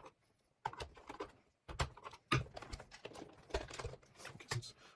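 Irregular clicks and knocks from a screwdriver working on a robot vacuum's plastic casing as its screws are taken out.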